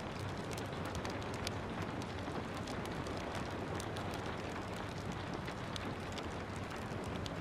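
Steady rain with frequent short, sharp crackles from a wood fire in a fireplace.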